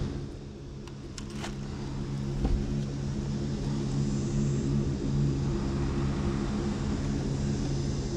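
An engine running steadily with a low hum, a little quieter for the first second or so before it settles.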